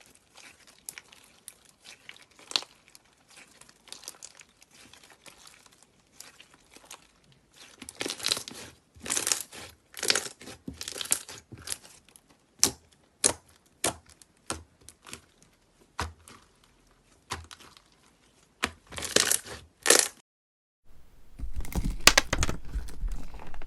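Slime being squeezed and pulled by hand, with crinkling, crackling and tearing noises. It begins faint and scattered and grows into louder separate strokes. Near the end it breaks off briefly and a denser, louder clip of handling begins.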